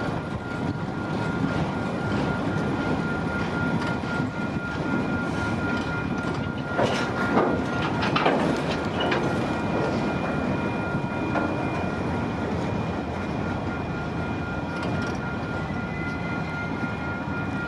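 Freight train cars rolling past on the rails, with a steady rumble and a thin, steady high whine from the wheels. A cluster of louder clanks comes about seven to eight seconds in.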